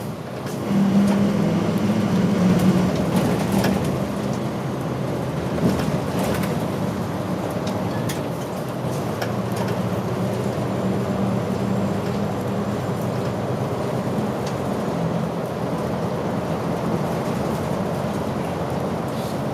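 Inside a route bus under way: engine drone with road noise and scattered rattles from the cabin. The engine note swells about a second in and eases again a couple of seconds later.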